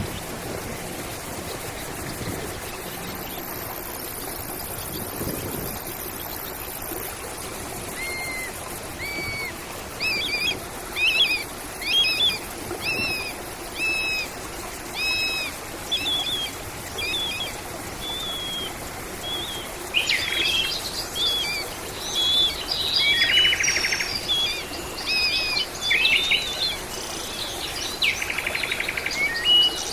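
Birds singing over a steady rush of running water. About eight seconds in, a bird starts repeating a short whistled note roughly once a second; from about twenty seconds the song turns into busier chirps and trills.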